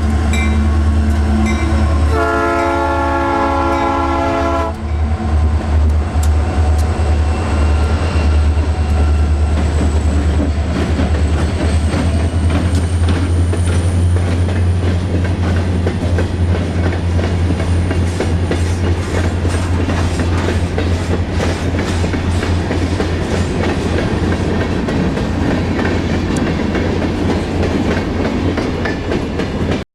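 Union Pacific train passing close by over a steady, loud low rumble. The locomotive's horn sounds one chord of about two and a half seconds, a couple of seconds in. Through the second half, the wheels click over the rail joints as the cars roll past.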